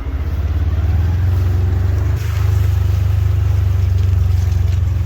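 A vehicle engine running with a steady low throb, getting louder over the first second as it picks up speed, with a brief dip about two seconds in.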